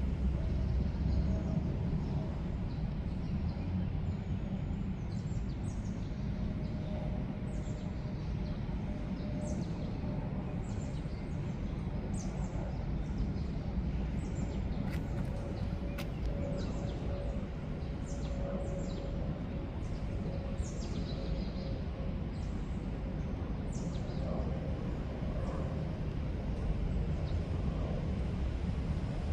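Outdoor ambience: birds chirping in many short, high calls over a steady low rumble, with a faint steady hum underneath for most of the time.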